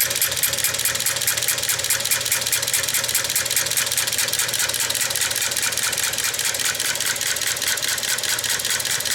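A 1908 Matheson engine's make-and-break ignition gear, turned by a belt from a sewing machine motor, clicking in a fast, even rhythm as the rotating cams kick the triggers that work the hammers. It is running mechanically only, with no electricity applied, so there is no spark.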